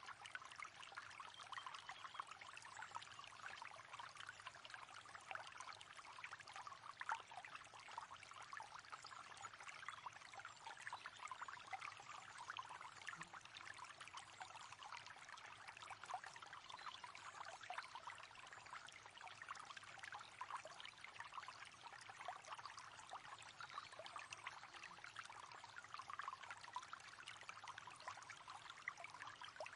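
Faint, steady river water running and trickling, a continuous babble of small splashes with no pauses.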